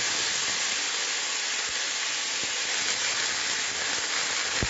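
Cubes of raw banana sizzling steadily in hot coconut oil in a wok, with a few faint knocks.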